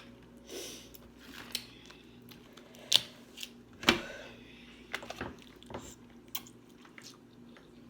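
Close-miked eating of snow crab: chewing with a handful of sharp snaps and clicks, the loudest about three and four seconds in.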